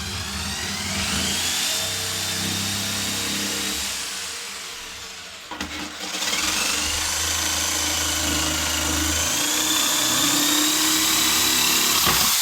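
A handheld electric power tool's motor runs in two long bursts with a short stop between them. The whine rises in pitch as it spins up, then holds steady under load.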